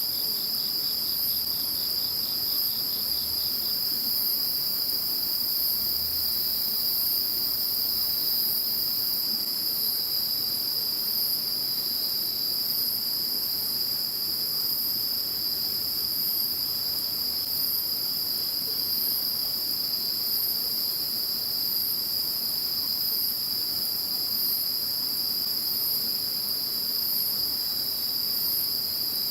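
A chorus of crickets and other insects calling, several steady trills at different high pitches overlapping, with a high chirp repeating about every second. A lower pulsing trill drops out about four seconds in.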